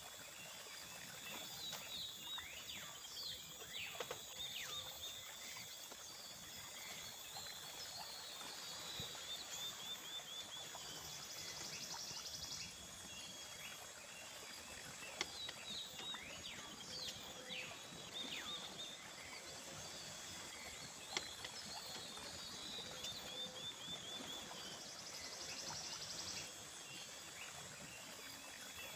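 Tropical forest ambience at dusk. Insects keep up a steady high drone, short bird chirps and trills come and go, and an even hiss runs underneath. A few sharp clicks stand out.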